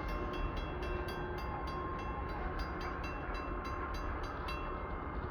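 Coal train rolling through a level crossing with a steady rumble of wheels on rail. Over it a crossing warning bell rings in rapid, even strikes, about five a second, and stops near the end.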